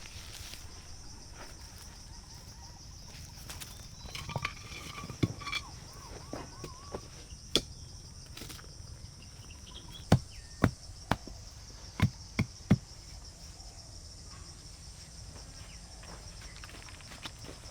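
Steady high-pitched chirring of insects in the forest. Over it come scattered sharp knocks, with a quick run of six about ten seconds in.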